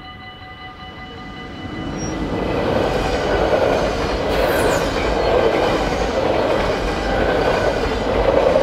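Yellow and blue double-deck passenger train passing over a level crossing at speed. Its rushing, rumbling noise builds from about a second and a half in and stays loud, with a brief high falling whistle about halfway through. The crossing's steady warning tones sound faintly at the start and are soon drowned out.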